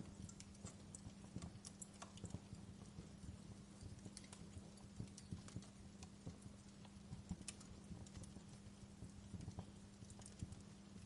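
Fireplace fire crackling softly, with irregular small pops and snaps, over a steady low hum.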